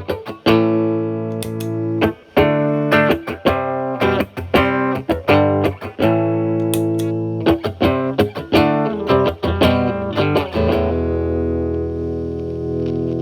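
Stratocaster electric guitar played through a Paul Cochrane Timmy overdrive pedal, its gain around 8–9, into a Marshall Valvestate amp's clean channel, giving a moderately overdriven tone. A quick run of picked notes and chord stabs, then a chord left to ring out near the end.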